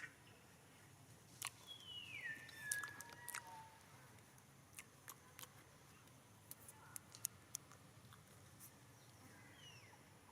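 Faint, scattered clicks and crunches of a monkey chewing food. A high call falls in pitch about two seconds in, and a shorter falling call comes near the end.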